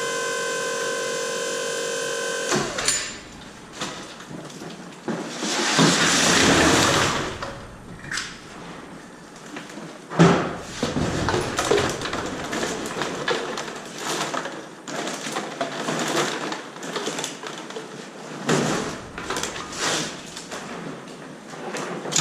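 Mini baler's motor humming steadily, then cutting off about two and a half seconds in. After it stops come irregular knocks, rattles and crackling from handling the PET bottles and the baler, with a loud rustling surge a few seconds later and a sharp knock about ten seconds in.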